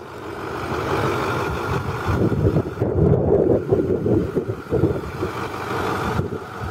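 A 6.4L Power Stroke V8 diesel in a Ford F-250 idling, with wind buffeting the microphone.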